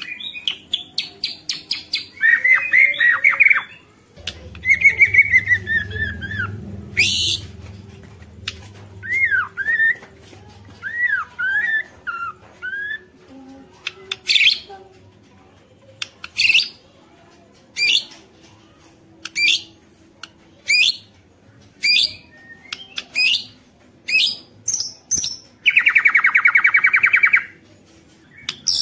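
White-rumped shama singing: a varied run of whistled glides and sharp notes, then short, sharp calls about once a second, and a buzzy rattle near the end.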